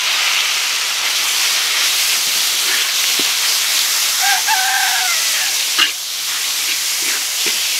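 Ground meat sizzling steadily in hot oil in a wok, stirred and scraped with a metal spatula, with a few sharp clicks of metal on metal. A rooster crows once, briefly, about four seconds in.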